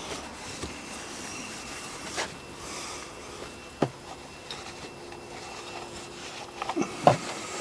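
A rag rubbing over an outboard motor's casing: soft wiping with a few light knocks, the loudest near the end.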